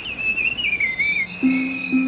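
A bird singing a warbling, wavering song over a steady high chorus of insects; about halfway through, soft sustained music notes come in.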